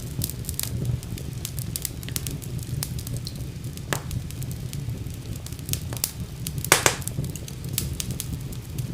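Wood fire crackling in a fireplace: frequent sharp pops and snaps over a steady low rumble of the flames, with a louder double crack about three-quarters of the way through.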